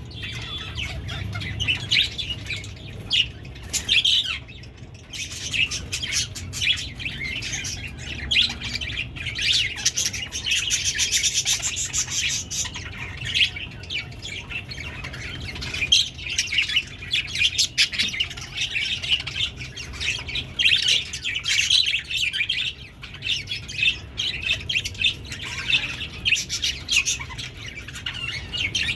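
Budgerigars chattering: a continuous stream of fast chirps, warbles and squawks.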